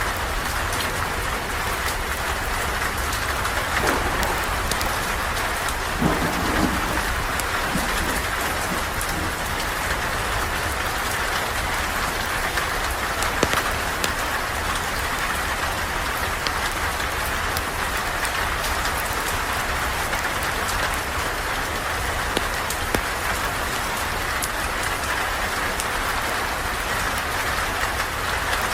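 Steady rain falling, with scattered ticks of drops and a low rumble underneath.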